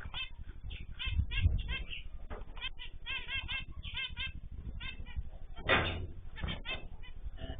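A mix of small cage birds (cockatiels, zebra finches, canaries and goldfinches) chirping and calling in quick, overlapping, repeated notes. A few fluttering wingbeats stand out, the loudest about six seconds in.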